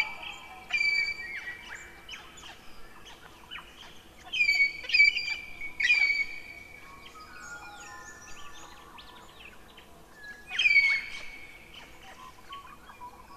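Birds singing: a few separate phrases of clear whistled notes and chirps, with quieter gaps between them.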